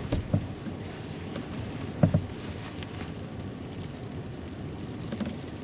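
Wind-driven rain and snow hitting the truck camper's shell, a steady hiss with scattered taps and one louder knock about two seconds in.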